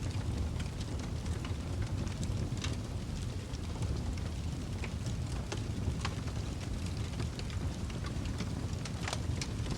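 Fireplace fire crackling: irregular sharp pops and snaps, a few a second, over a steady low rumble of the flames.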